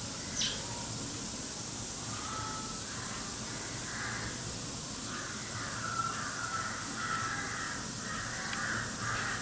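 Birds calling: a run of short calls from about two seconds in, over a steady hiss.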